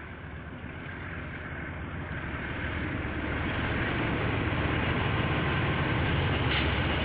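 KiwiRail diesel-hauled train approaching, its locomotive engine and wheel noise growing steadily louder. Heard through a security camera's microphone.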